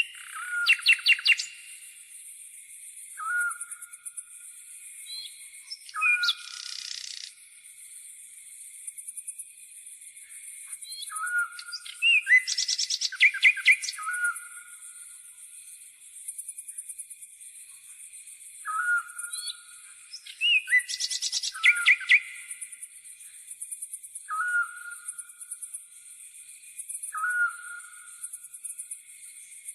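Wild birds calling over a constant high-pitched insect trill, likely grasshoppers. A short call repeats every two to three seconds, and a few louder, rapid chattering phrases come about a second in, around six seconds, from about twelve to fourteen seconds, and around twenty-one seconds.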